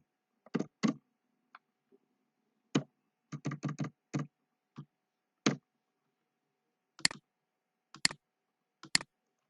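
Computer keyboard keys being typed: a dozen or so sharp, irregular clicks, some in quick runs and some alone, with short silences between.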